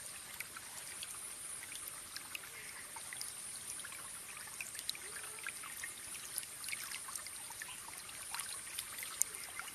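Small waterfall: water trickling and splashing, an even rush of water with many small sharp splashes and drips, and a steady high-pitched hiss above it.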